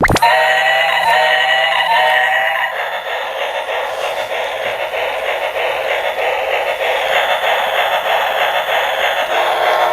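Loud synthesized electronic sound starting suddenly: a warbling tone repeated three times, about once a second, then a dense buzzy electronic drone.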